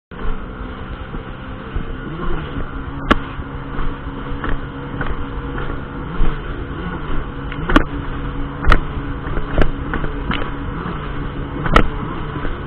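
Jet ski engine running steadily, its pitch dipping and recovering a few times, with several sharp knocks scattered through.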